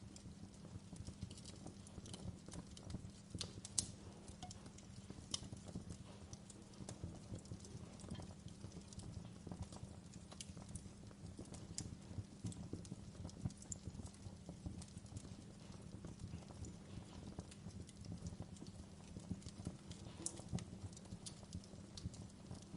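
Wood fire crackling in a fireplace: a dense, irregular run of small snaps over a low steady rumble, with a few sharper pops, the loudest about four seconds in.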